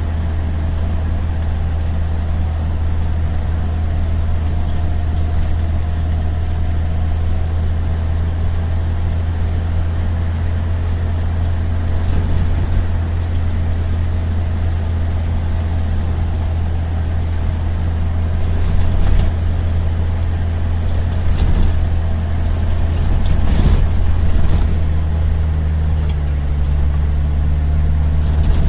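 Motor vehicle engine running steadily while driving, a low hum that steps up in pitch near the end. Several short knocks and rattles come in the second half.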